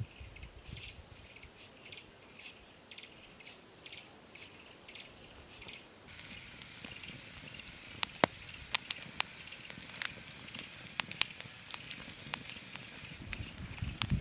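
Short hissing strokes, about one a second, for the first six seconds, then scattered sharp clicks over a faint steady hiss.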